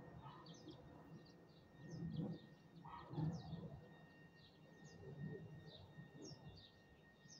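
Small birds chirping faintly, short falling chirps about twice a second, with a few low muffled sounds rising and fading in the background and a faint steady high hum.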